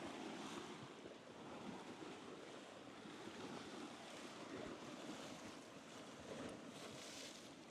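Faint, steady rushing of wind outdoors, buffeting the microphone, a little stronger near the end.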